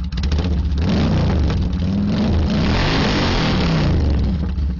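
Motorcycle engine revved hard and held at high revs for about four seconds, the pitch rising and falling, then dropping back to idle near the end. It is being revved for a decibel-meter loudness test.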